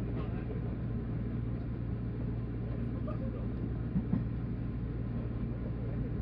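Steady running noise of a 185 series electric train heard from aboard: a continuous low hum over an even rumble of wheels on rail, with a couple of light knocks about four seconds in.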